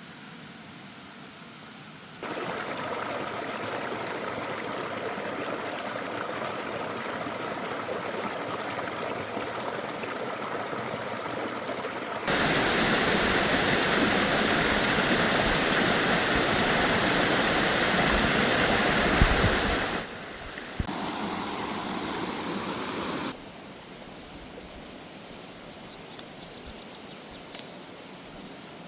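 Steady rushing noise like flowing water, in several stretches of different loudness that start and stop abruptly. The loudest stretch falls in the middle and carries a few faint high chirps.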